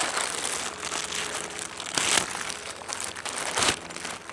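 Plastic packaging crinkling and rustling as parts are handled and unwrapped, with a few louder crackling handfuls.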